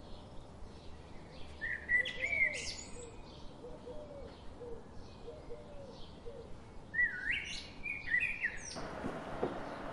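Birds calling outdoors: two bursts of quick chirping calls that sweep up and down in pitch, about two seconds in and again about seven seconds in, with fainter, lower calls repeating in between. About nine seconds in, a steady rushing noise comes up.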